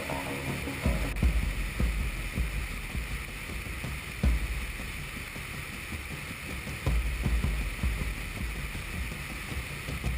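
Airflow rushing over a wingtip-mounted GoPro in flight: a steady hiss under an irregular low rumble of buffeting gusts.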